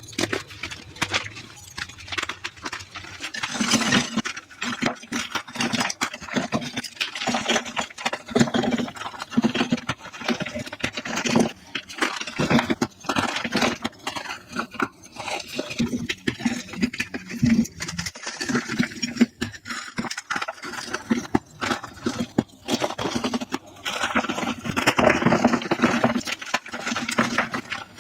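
Reformed gym chalk blocks being crushed and crumbled, a dense, continuous gritty crunching and crackling, played back at double speed.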